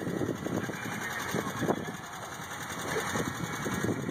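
1993 Ford Festiva's 1.3-litre four-cylinder engine idling with a tick, which goes with the engine trouble the owner names as the car's one problem.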